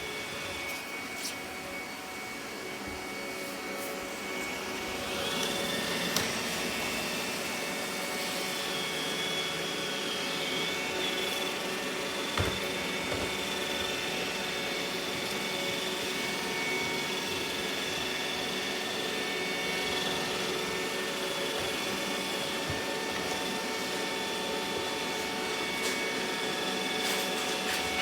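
Robot vacuum running with a steady whirring hum. It grows louder about five seconds in, when a high whine joins it, and two sharp clicks come through.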